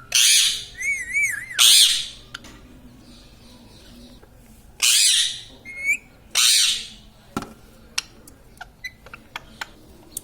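Pet ring-necked parakeet squawking harshly four times, with short warbling whistled calls between the squawks. In the last few seconds these give way to a run of soft clicks.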